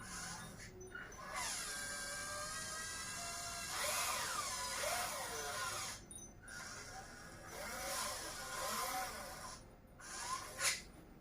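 Small electric motors of an RC truck whining, their pitch rising and falling as they speed up and slow down in short runs, with a sharp click near the end.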